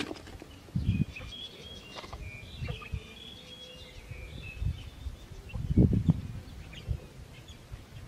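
Small birds chirping, a run of short high chirps through the first half, over irregular low rumbling thumps, the loudest about six seconds in.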